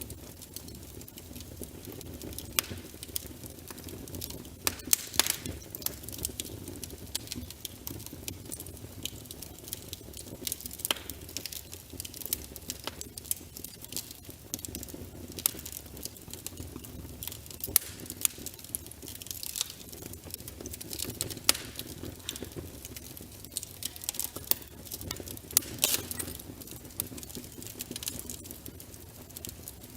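Wood fire in a fireplace: burning logs crackling with irregular sharp pops and snaps over a low, steady rumble of the flames.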